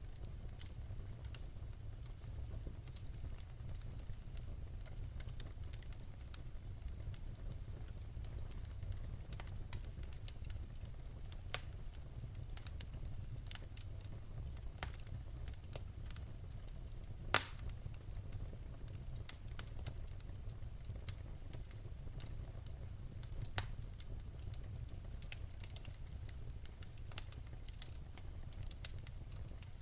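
Wood fire in a fireplace crackling, with scattered sharp pops over a steady low rumble of the flames; one louder pop about halfway through.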